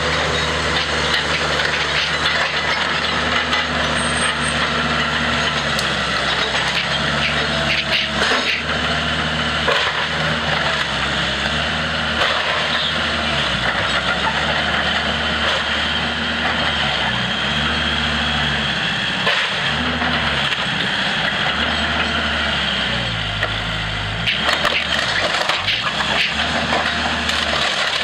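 Heavy demolition machine's diesel engine working under varying load, its pitch rising and falling every couple of seconds, with wood cracking and splintering as the house is torn down.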